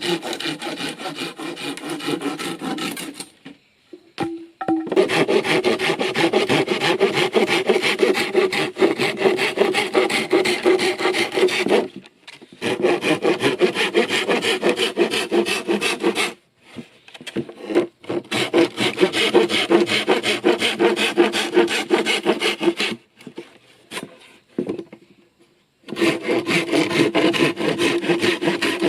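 Bamboo being sawn by hand: fast back-and-forth saw strokes with a hollow ringing tone from the culm. It comes in several long bouts broken by short pauses.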